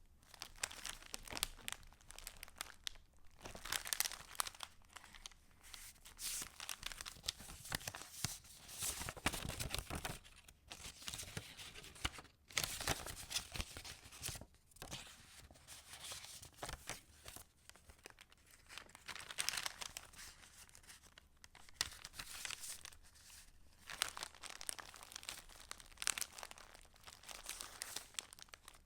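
Paper pages of a handmade junk journal being turned and handled, rustling and crinkling in uneven bursts with a couple of brief pauses.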